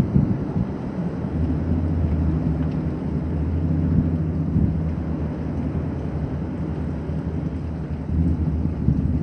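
Storm wind and rain noise with a steady low hum underneath, starting about a second in and fading near the end.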